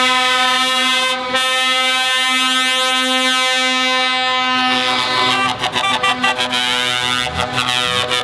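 Truck air horn sounding in one long steady blast. Sharp crackling clicks join in over the second half.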